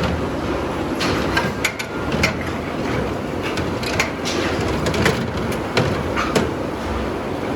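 Tire-factory machinery running steadily, with irregular sharp metallic clanks and clicks over the rumble.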